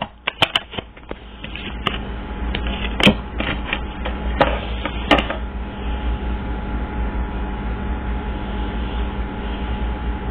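Tarot cards being handled: a quick run of clicks and snaps for the first five seconds or so, then a steady low rumble that carries on to the end.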